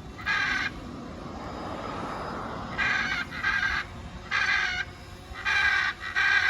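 Hyacinth macaw screaming: six harsh, loud calls, the first alone and the rest coming in pairs. These are fear screams at a drone hovering close to it.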